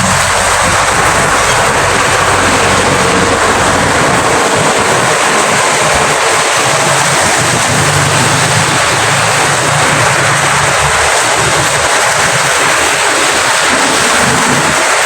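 Steady rain falling, an even hiss, with a low rumble underneath that dies away about eleven seconds in.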